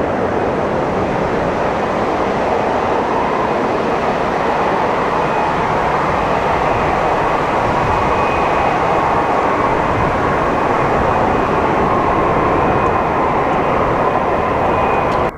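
Jet airliner engine noise: a loud, steady rush with a faint high whine, building slightly, then cut off abruptly at the end.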